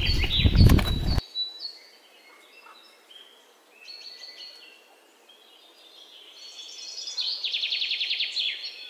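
Small birds chirping in short high calls, building near the end into a fast rattling trill. Before that, about a second of loud rushing outdoor noise cuts off abruptly.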